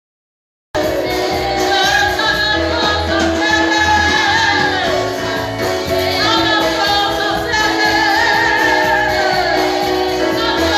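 Gospel worship singing with instrumental backing, sung melody lines over a steady bass. The audio cuts out completely for under a second at the start.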